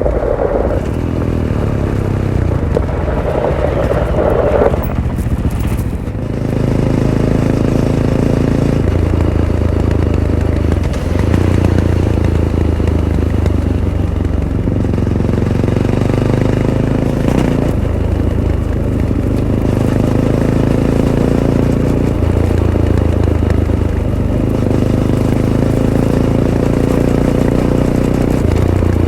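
Fantic Caballero 500's single-cylinder engine running through its stock Arrow exhaust while riding a trail. The engine note rises and falls every few seconds with throttle and gear changes.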